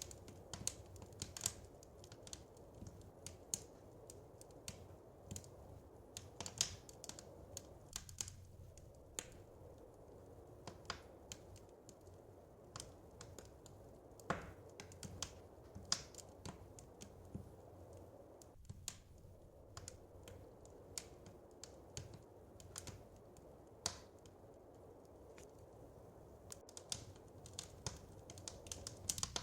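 Wood fire crackling in a fireplace: irregular sharp pops and snaps, several a second with a few louder ones, over a soft steady low rush.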